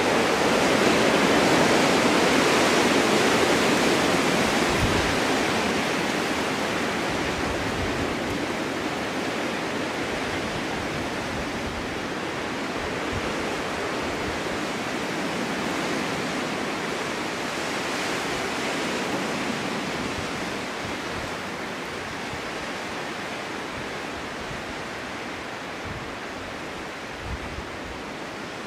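Winter storm wind blowing steadily, a rushing noise with no distinct events. It swells to a gust in the first few seconds, then slowly eases.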